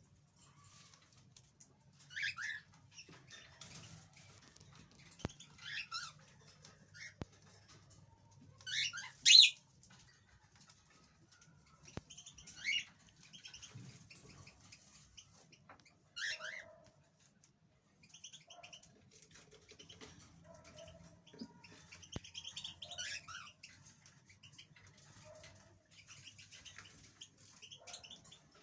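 Caged European goldfinch giving short scattered bursts of chirping and twittering, with pauses between phrases and the loudest burst about nine seconds in. A faint low hum runs underneath.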